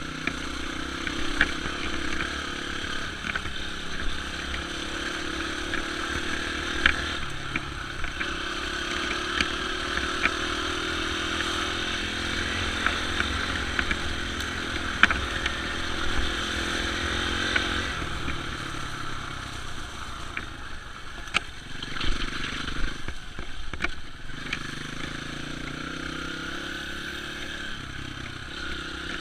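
Dirt bike engine running on a trail, its pitch rising and falling as the throttle opens and closes. Sharp knocks and clatter are scattered through, and the engine is lower and rougher for a few seconds past the middle before picking up again near the end.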